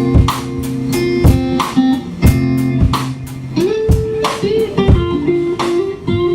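Live rock band playing an instrumental passage: electric guitar holding sustained notes, one bent upward partway through, over a steady drum beat of about two hits a second.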